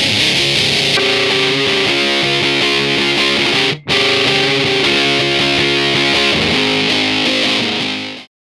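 Electric guitar played through a fuzz pedal with its gain at about nine o'clock: thick, sustained fuzzy notes and chords with a hissy top end. The sound drops out briefly about four seconds in, then cuts off just before the end.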